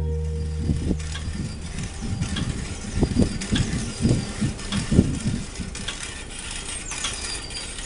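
Bicycle in motion: irregular rattling and ratcheting clicks from its mechanism, with a few short high squeaks near the end.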